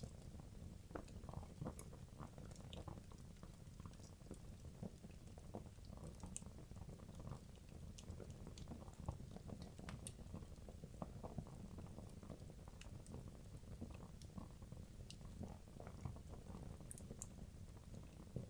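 Wood logs burning in a fireplace: a soft low rumble of the flames with irregular small crackles and pops throughout.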